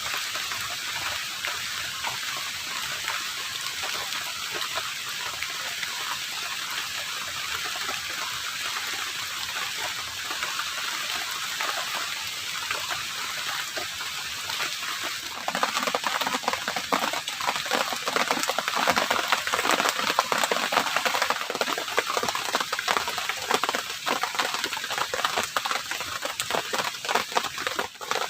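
Heavy rain falling steadily. About halfway through it gets louder and closer, with dense pattering drops.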